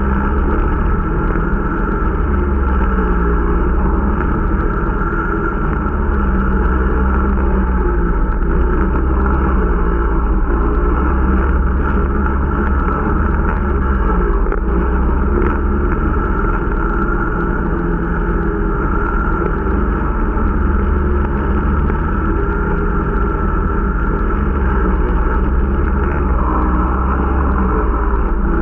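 Irbis Dingo T125 snowmobile's 125 cc engine running steadily under way while the machine is being run in, its drone rising and falling slightly with throttle.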